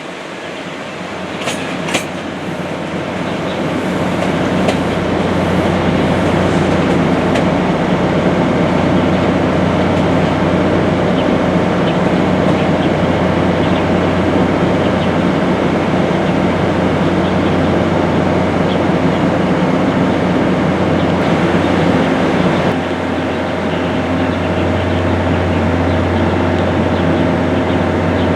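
Passenger train running on the rails, a steady rumble with wheel clatter that builds over the first few seconds, over a steady low hum. A few sharp metallic clicks come just after the start.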